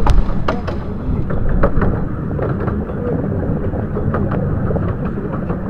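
Ravenglass and Eskdale Railway's 15-inch-gauge train running along the track, heard as a steady rumble with irregular clicks and knocks from the wheels and carriages.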